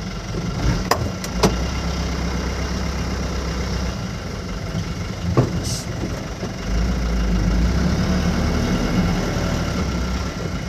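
Truck engine running steadily, its low hum swelling twice, with a few sharp knocks or clicks.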